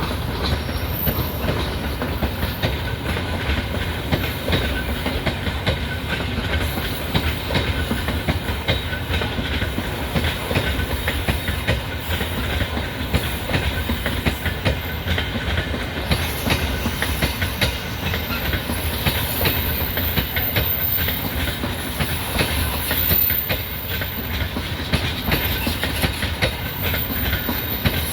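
Freight train hauled by a 3ES5K electric locomotive rolling past, its wheels clacking steadily over the rail joints.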